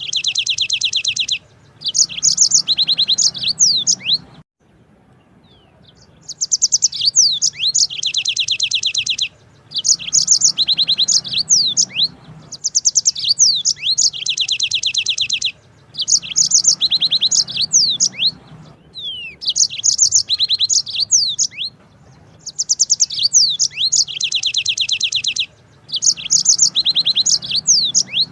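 Yellow-fronted canary (Mozambique singer) singing long rolls: repeated phrases of fast trills with quick rising and falling notes, each phrase lasting a few seconds, with short pauses between them.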